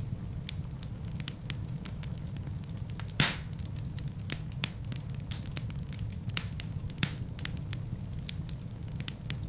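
Wood fire crackling in a fireplace: a steady low rumble of flames under frequent sharp crackles, with one louder pop a little over three seconds in.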